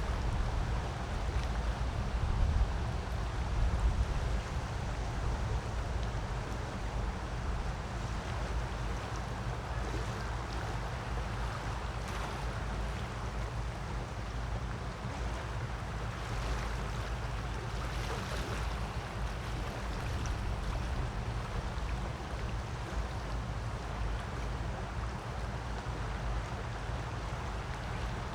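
Creek water running steadily, with a low rumble underneath that swells a little a few seconds in.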